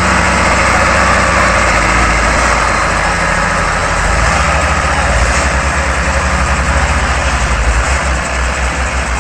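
A motor vehicle's engine running steadily over a constant rush of road and traffic noise, with a low, regular throbbing that grows plainer about halfway through.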